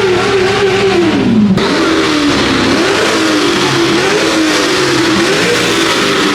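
A car engine revving, its pitch rising and falling again and again; the sound changes abruptly about a second and a half in.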